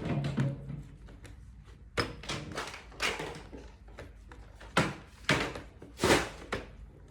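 A string of separate knocks and taps, like hard objects being set down or handled, with the loudest few in the second half. Music fades out just after the start.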